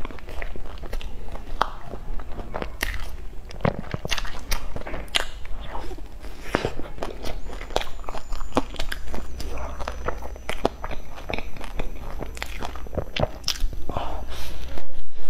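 Close-miked biting and chewing of a cream-filled sponge bun coated in pork floss and seaweed: soft, wet mouth sounds with many small irregular clicks, over a faint steady low hum. A louder bite comes near the end.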